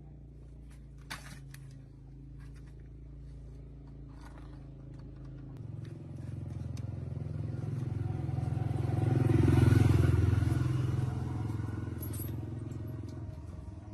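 Truck engine running steadily. About five and a half seconds in the sound changes, swelling to its loudest near ten seconds before easing off, as when the vehicle drives by or is revved.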